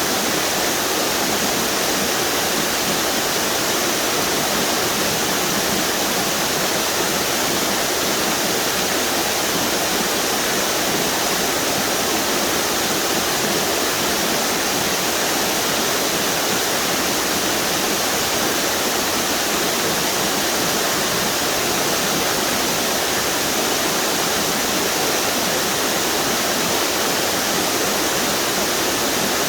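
A string of waterfalls on the Duck River: a steady, unbroken rush of falling water.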